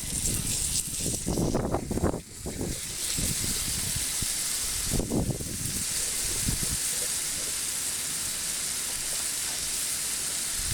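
Steak sizzling steadily on a hot forged iron plate, a dense frying hiss with a few low knocks in the first half.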